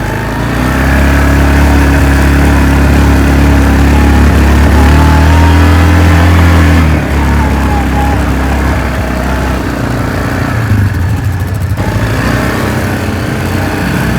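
Off-road vehicle engine running while riding on a trail, steady and loud, easing off a little about seven seconds in.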